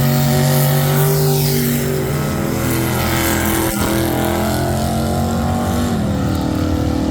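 Race truck engine held at high revs, then dropping back to lower revs about six seconds in.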